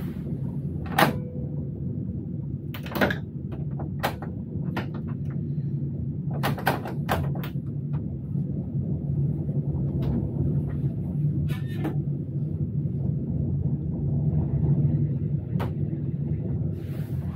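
Steady low rumble of an electric train running, heard inside the locomotive cab. Scattered sharp clicks and knocks break through it, the loudest about one and three seconds in, with a cluster a little past the middle.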